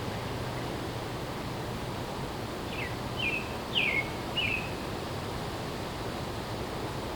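A songbird gives four short chirps in quick succession, each dropping in pitch, over a steady rushing background of wind in the trees and distant traffic.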